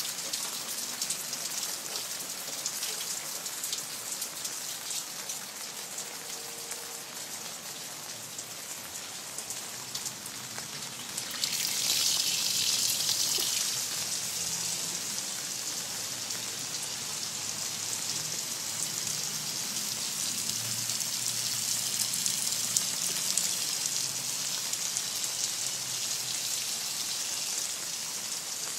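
Steady rain falling, a continuous hiss of drops; it grows heavier about a third of the way through and stays heavier.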